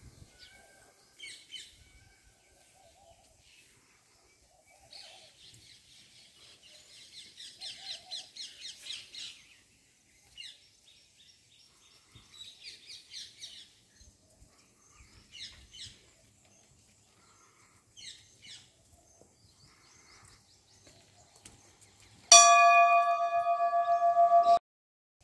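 Small birds chirping in quick repeated runs. Near the end, a loud, steady ringing tone with several overtones lasts about two seconds and cuts off suddenly.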